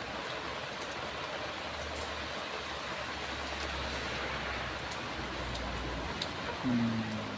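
Steady heavy rain falling, with a low rumble that swells and fades in the middle. A short low hum comes near the end.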